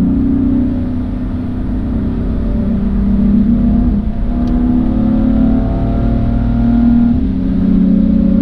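Car engine running under load, its note changing pitch in steps about 4 and 7 seconds in, and rising between them.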